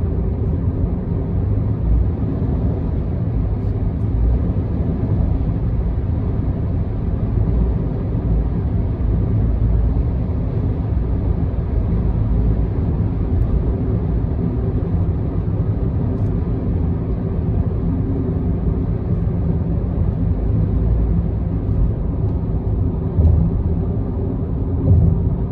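Car driving at a steady speed, heard from inside: a steady low rumble of engine and tyres on the road, with a couple of short bumps near the end.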